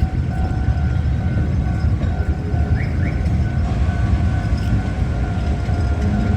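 Rail maintenance vehicle running during shunting: a continuous heavy low rumble with a steady whine on top.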